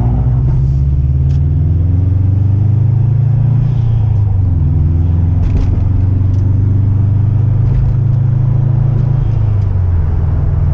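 Car engine running under way, a steady low drone whose pitch climbs slightly and then eases back about four seconds in.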